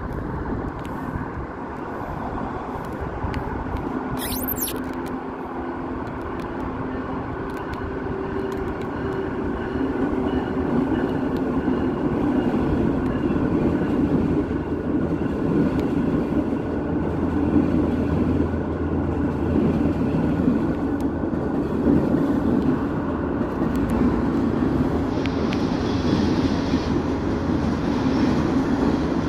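Electric passenger train on the Northeast Corridor passing directly below, a steady rumble of wheels on rail with a low hum that grows louder about ten seconds in and stays up as the cars go by.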